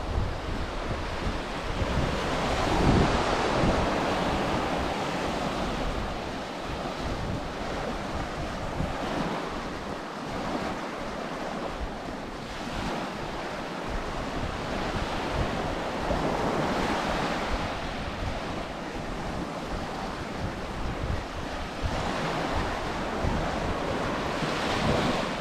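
Ocean surf breaking and washing up a sandy beach, swelling and easing in surges every several seconds, with wind buffeting the microphone.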